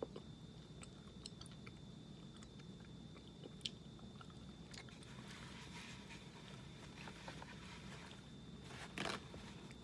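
A person faintly chewing a hard, stale gummy fruit snack, with small scattered mouth clicks over a faint steady hum and high whine. There is a brief louder noise about nine seconds in.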